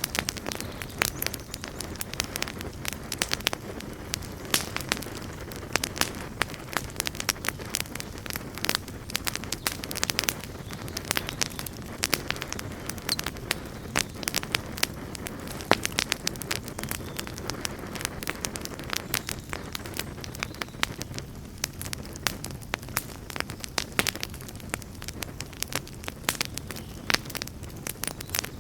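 Wood campfire burning with a continuous low roar and dense, irregular crackles and pops.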